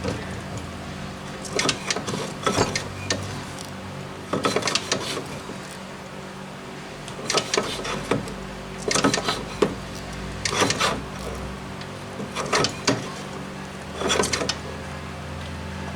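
Old Briggs & Stratton model FI engine being turned over by hand in about ten short, clattery spins, with no firing: the magneto gives no spark. A steady low hum runs underneath.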